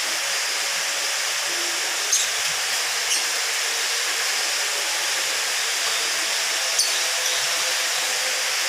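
Steady hiss throughout, with three brief, sharp high chirps from lovebirds about two, three and seven seconds in.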